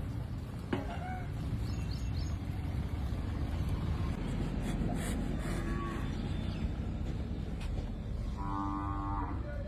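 Cattle lowing once, a pitched call of about a second near the end, over a steady low outdoor rumble.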